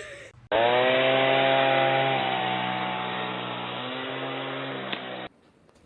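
A small motor running steadily with a buzzing rasp. It starts about half a second in, its pitch dips slightly at first and then holds, and it cuts off suddenly after about five seconds.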